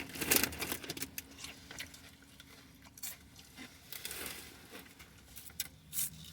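Food packaging crinkling and rustling while eating, in scattered short crackles, with a faint low hum underneath.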